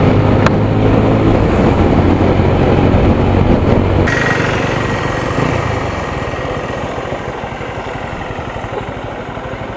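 Single-cylinder motorcycle engine running at road speed with wind rush over the microphone. After about four seconds the bike eases off: the wind falls away and the engine settles into a slower, lower throb as it slows down.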